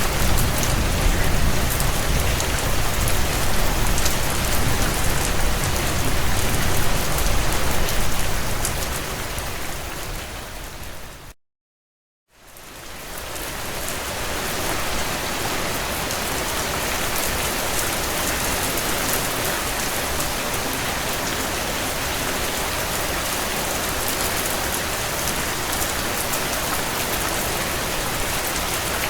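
Steady heavy rain drumming on a tin roof. About eleven seconds in it fades out to a second of silence, then fades back in over a couple of seconds, with less low rumble than before the gap.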